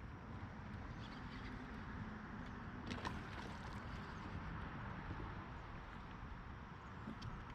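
Steady rumble of wind and water noise around a fishing kayak, with a couple of light knocks about three seconds in.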